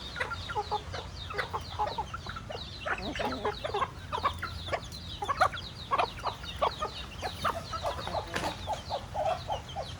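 A flock of chickens clucking: many short, overlapping calls throughout, with higher chirping among them.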